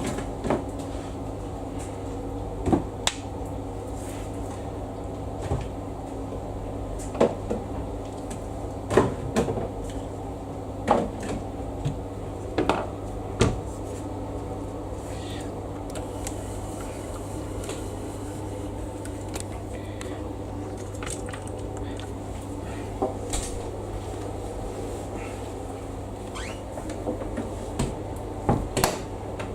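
Scattered knocks and clicks of handling at a washing machine being loaded, over a steady low hum. The knocks come in a cluster in the middle and again near the end.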